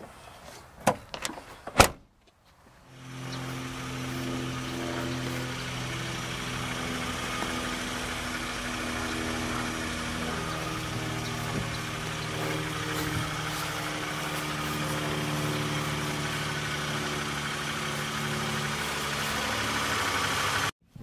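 Two sharp knocks, then a car engine idling steadily with a low hum and a hiss over it, cutting off suddenly near the end.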